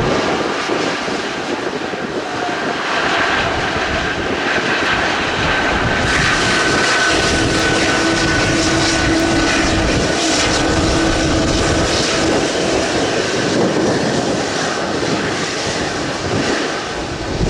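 Jet airliner's engines passing close on landing, a loud rush of noise with a steady whine, swelling a few seconds in and easing near the end.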